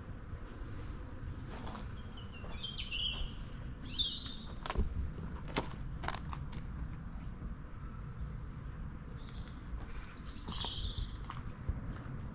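Songbirds singing in short phrases: a few at once a few seconds in, and a falling phrase near the end. A few sharp clicks come in the middle, over a steady low rumble.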